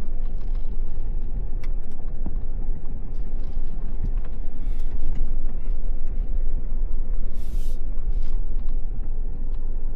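Full-size pickup truck carrying a truck camper driving on an unpaved side road: a steady low rumble of engine and tyres, with scattered knocks and rattles. A short hiss comes about seven and a half seconds in.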